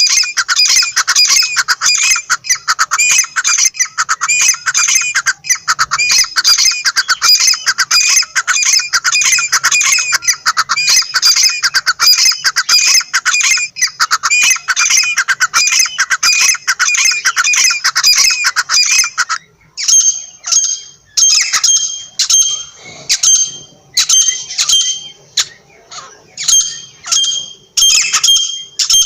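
Francolin (teetar) calling loudly with rapid, unbroken repeated notes; about two-thirds of the way in the calling breaks off and turns to separate, shorter calls with a clearer high note, about one a second.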